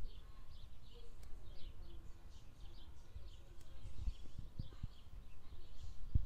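Small birds chirping, short high calls a couple of times a second, over a steady low rumble with a few soft low thumps near the end.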